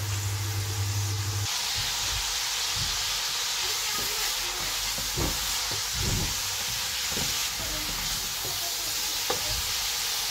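Chicken pieces shallow-frying in hot oil in a nonstick wok over a full gas flame, sizzling steadily, with a wooden spatula scraping and knocking against the pan as they are stirred. A low hum cuts off about a second and a half in, where the sizzle grows louder.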